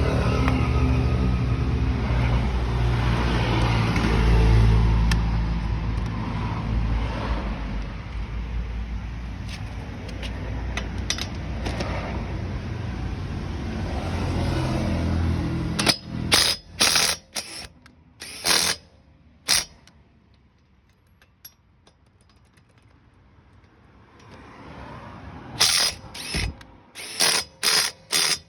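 A steady low engine-like rumble runs for the first half. Then a DeWalt DCF840 cordless impact driver is triggered in short bursts, about four in quick succession and then a string of six more near the end.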